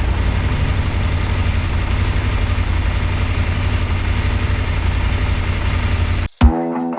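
Motorcycle engine running with a steady low rumble under a wash of noise, which cuts off suddenly about six seconds in as guitar music starts.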